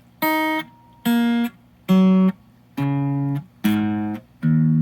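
Electric guitar on its neck single-coil pickup (Mojotone '58 Quiet Coil) through a small valve amp with a 12-inch alnico speaker, playing a slow phrase of about six separate notes. Each of the first five is cut off short; the last, about four and a half seconds in, rings on.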